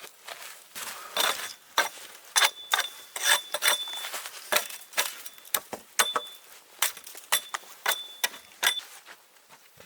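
A run of irregular sharp clicks and knocks, about two or three a second. Several leave a brief high ring, like small metal objects clinking together.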